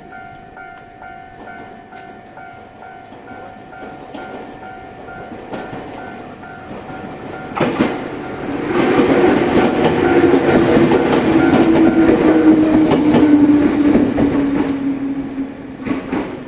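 Level crossing warning alarm sounding in a steady repeating pattern, about two pulses a second. From about eight seconds in, a two-car Ryutetsu 5000-series electric train passes through the crossing: wheels clatter over rail joints and a low motor tone slowly falls in pitch, and the sound fades near the end.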